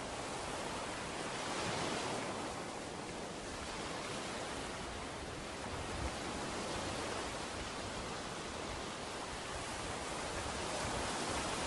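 Ocean surf washing onto a beach: a steady rush of breaking waves that swells about two seconds in and again near the end.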